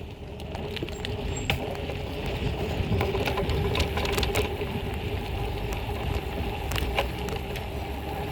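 BMX bike being ridden on pavement: steady tyre and road rumble with scattered clicks and rattles from the bike.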